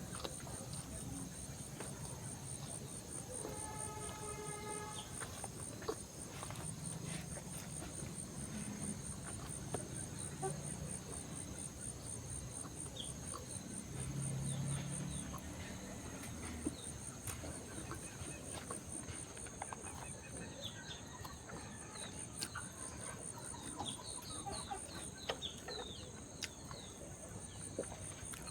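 Insects chirring steadily in a high, fast-pulsing trill. A short pitched call rings out about four seconds in, small bird-like chirps come in during the last third, and scattered soft clicks are heard throughout.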